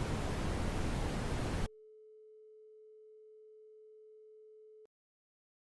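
Synthetic brown noise, a deep rushing hiss, with a pure 432 Hz tone beneath it. The noise cuts off abruptly about a second and a half in, leaving the faint steady tone alone. The tone then stops suddenly near five seconds in.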